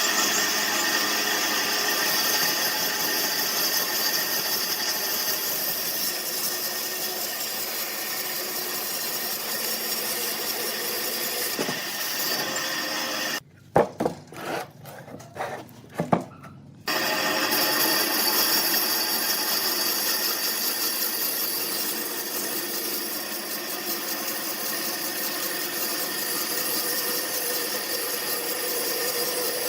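Power saw cutting wood: a steady running noise with a high whine. About 13 seconds in it breaks off for some three seconds, with a few sharp knocks in the gap, then runs on.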